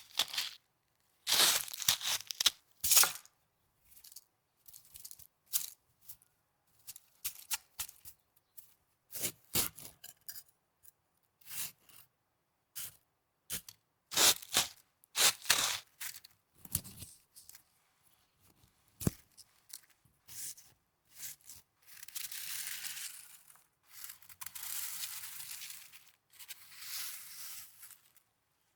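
Snow being handled as an ASMR prop: many short crunching, tearing-like bursts, then longer rustling stretches near the end.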